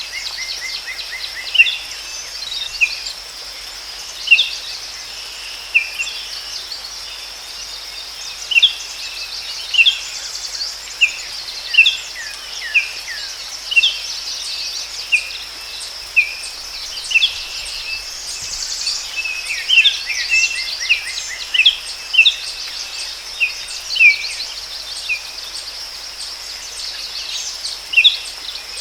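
Forest birds giving short, sharp chirps, many times over, above a steady high-pitched insect drone.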